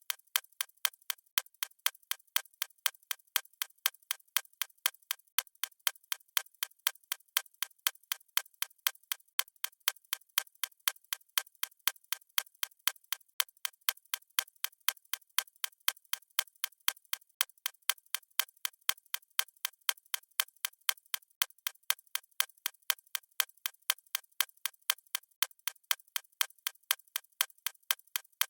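Clock ticking at a steady, even pace: a long unbroken run of short, sharp ticks.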